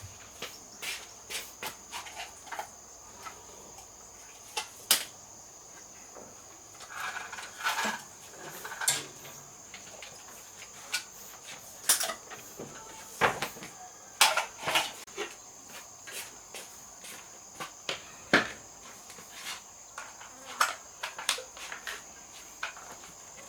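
Irregular sharp knocks and clicks, scattered through, over a steady high-pitched insect drone.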